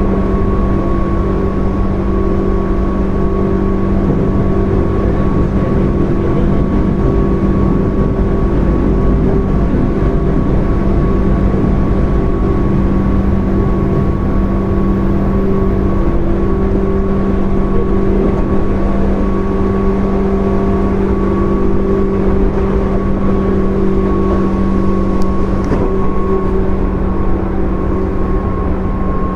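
Onboard running sound of a JR 205-series 0 electric multiple unit with field-added excitation control, cruising at a steady speed. A steady low rumble of wheels on rail runs under a constant hum and whine from the traction motors and gears.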